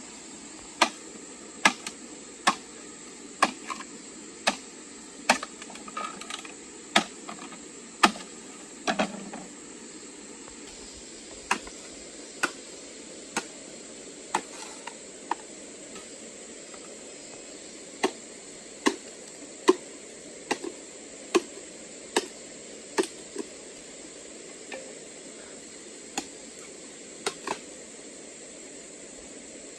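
Repeated sharp knocks, one about every second, in runs of several with short pauses between. A steady high hiss runs underneath.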